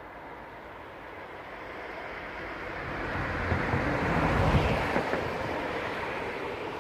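A vehicle passing by: a rushing noise that grows louder over a few seconds, peaks just past the middle, then fades away.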